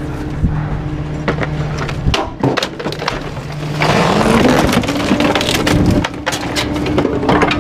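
Garbage truck's packer crushing bulky waste, with wood cracking and splintering under the blade over the running engine. About four seconds in the hydraulics and engine rise in pitch and the crushing gets louder and denser.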